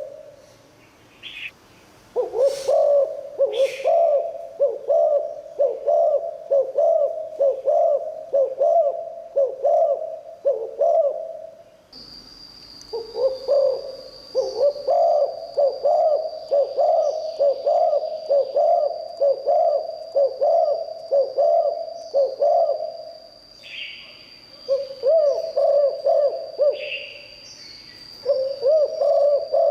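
Spotted dove cooing: long runs of low repeated coos, broken by short pauses. A thin, steady high tone joins partway through, and there are two short clicks near the start.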